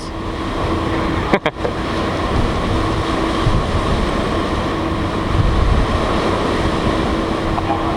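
Wind buffeting the microphone on a ferry's open deck in high winds: loud, rumbling noise over a steady low hum from the ship, with a brief drop-out about a second and a half in.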